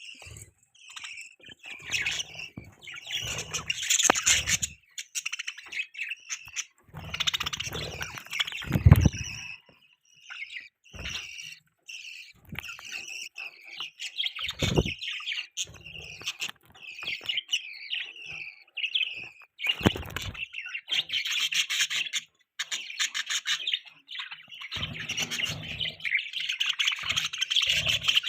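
Budgies (budgerigars) chirping and chattering almost without pause, quick warbling notes in a busy stream. A few low thumps sound among the chirps, the loudest about nine seconds in.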